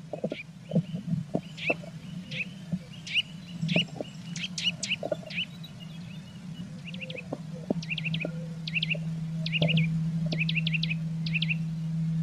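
Blue tit calling: short high chirps, scattered at first, then in quick groups of two to four. Beneath them are soft low knocks and scratches and a steady low hum.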